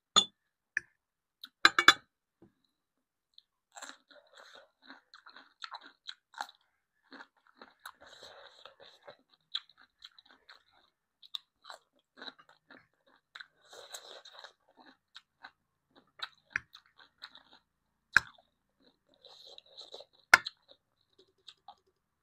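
A person chewing and crunching food, with wet mouth sounds and a few sharp, loud clicks, the loudest about two seconds in and twice near the end.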